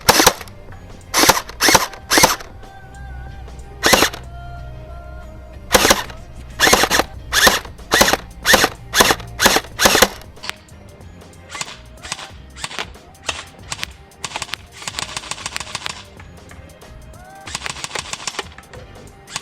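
AR-15-style gel blaster firing: a string of single shots, some about half a second apart, then two rapid full-auto bursts near the end, each lasting about a second and a half.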